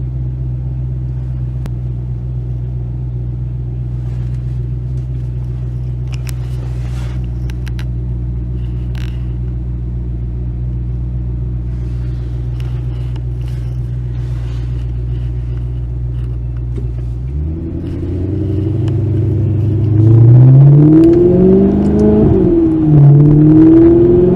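Sports car engine idling steadily, then revved: the pitch starts climbing after about 17 seconds, and several sharp, loud revs rise and fall near the end.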